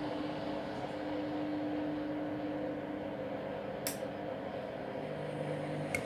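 Candy Grando Vita Smart Touch washing machine running with a steady motor hum as the drum turns, which the owner takes for the initial load distribution. Two sharp clicks, one about four seconds in and one near the end.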